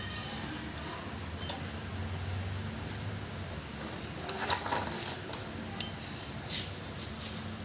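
Light metallic clinks and taps of drum brake hardware and hand tools being handled, over a low steady hum that stops about two and a half seconds in.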